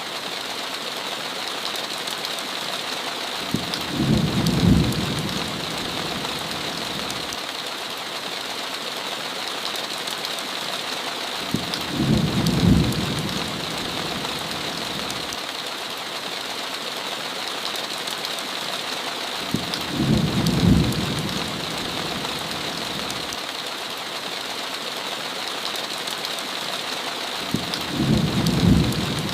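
Steady heavy rain falling on a window, with a low rumble of thunder that swells and fades about every eight seconds, four times in all.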